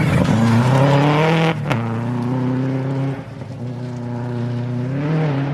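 Subaru rally car's engine revving hard through a hairpin. The revs climb, cut sharply about a second and a half in, hold, dip again around the middle, then rise as the car accelerates away.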